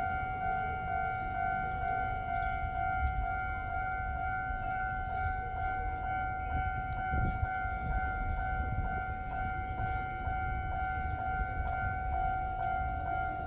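A steady, unbroken high-pitched tone with overtones, held without a break, over a low rumble.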